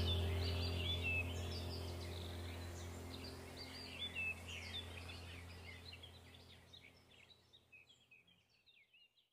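Small birds chirping over a steady low hum, both fading gradually to silence.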